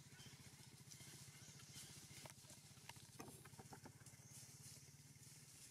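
Faint small engine running steadily with a fast even pulse. A few light clicks and short high chirps come in around the middle.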